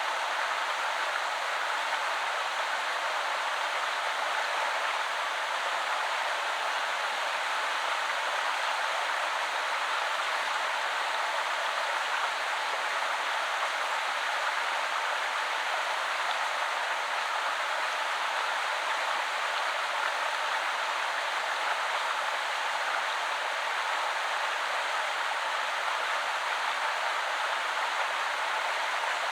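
River water flowing in a steady, even rush with little deep rumble.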